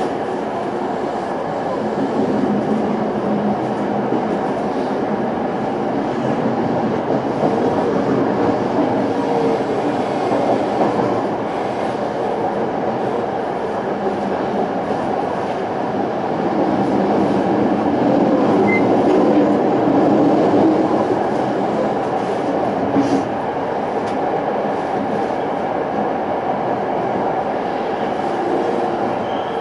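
Toei 5300 series electric train with a Hitachi-built Mitsubishi GTO inverter, heard from inside a car while running at speed: a steady rumble of wheels on rail, with faint tones from the traction equipment that shift in pitch.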